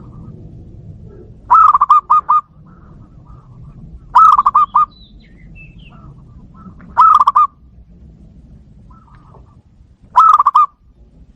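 Zebra dove (perkutut) cooing: four short phrases of rapid, stuttering coo notes, one about every three seconds.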